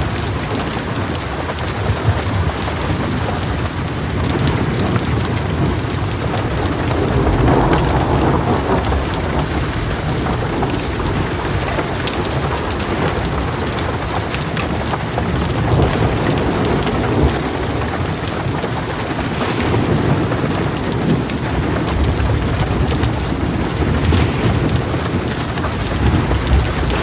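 Heavy rain drumming steadily on a metal roof, with low thunder rumbling in swells underneath.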